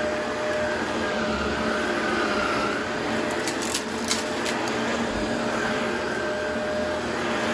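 Vacuum cleaner running steadily with a wavering motor whine, with a short run of sharp crackles about three to four seconds in as crunchy debris is sucked up.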